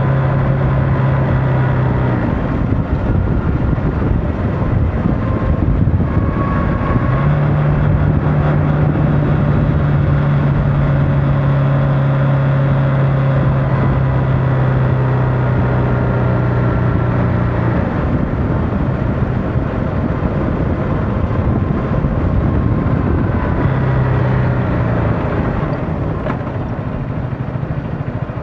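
Motorcycle engine running while riding, its pitch stepping up and down several times as the revs change, over a steady rush of wind and road noise.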